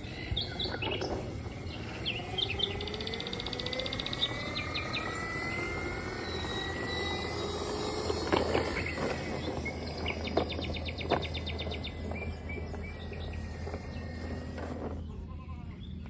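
Birds chirping and giving rapid trills over steady outdoor background noise with a low hum, while a faint whine rises slowly over several seconds and a few sharp clicks sound about halfway through.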